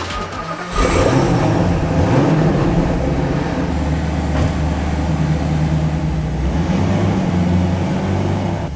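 A supercar's engine running loudly, with road noise. It comes in suddenly about a second in and holds steady.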